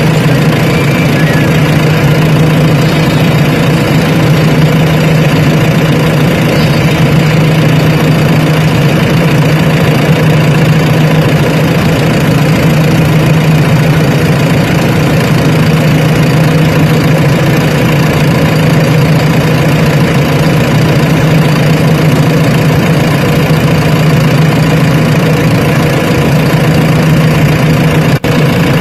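Heavy diesel engine of earth-moving machinery running steadily at an even speed, with a momentary break about 28 seconds in.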